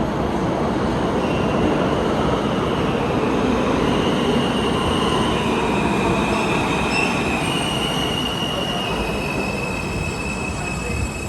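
A New York City Subway R160 train running with a steady rumble, its wheels squealing in thin high tones that come and go from about a second in.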